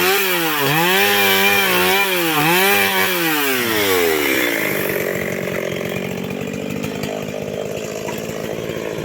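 Chainsaw at high revs cutting into firewood, its engine note dipping and recovering three times as the chain bites. About four seconds in the throttle is let off, and the revs fall away to a low idle.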